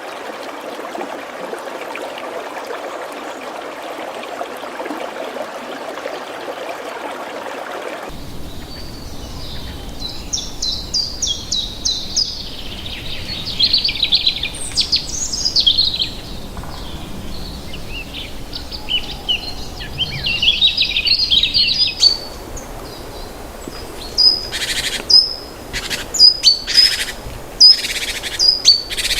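Running water, a steady rush, for about the first eight seconds, then a sudden change to birds singing: fast high chirps and trills, giving way near the end to a string of loud, sharp repeated calls.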